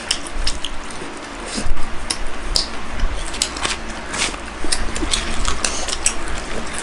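Chewing and wet mouth clicks and smacks of people eating, with one louder bump a little under two seconds in.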